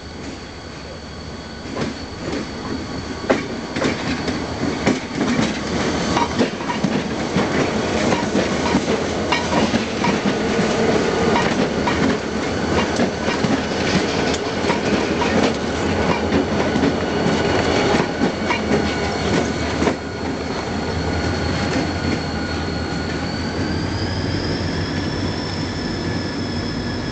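Diesel locomotives running light under throttle, their engines working hard, with wheels clicking over rail joints and a steady whine that rises in pitch near the end.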